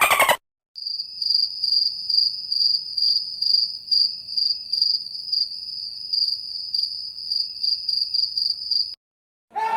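Crickets chirping: a steady high trill pulsing about two to three times a second. It starts just under a second in and stops shortly before the end.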